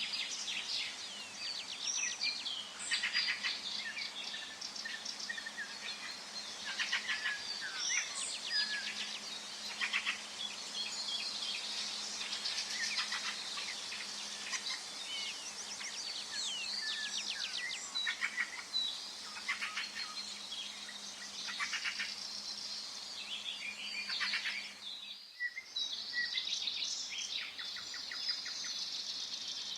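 Several songbirds singing and calling over one another, a mix of rapid trills, short chirps and whistles over a faint steady background hum. The whole sound drops out for an instant near the end.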